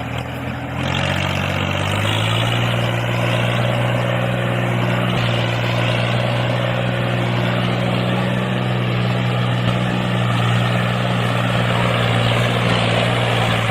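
Small motor of a homemade toy tractor running with a steady hum, rising in pitch over the first two seconds and then holding steady.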